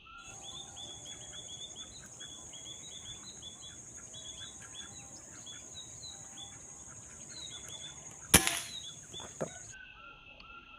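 Small birds chirping in quick, busy calls over a steady high insect hiss. About eight seconds in comes a single sharp shot with a short ringing tail, then a fainter click a second later.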